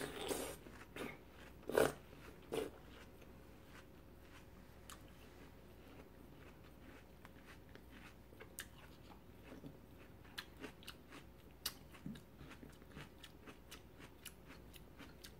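Close-up chewing of a mouthful of watermelon: a few wet, crunchy bites in the first couple of seconds. After that come faint, scattered clicks and taps as the watermelon rind pieces are shifted about on the board.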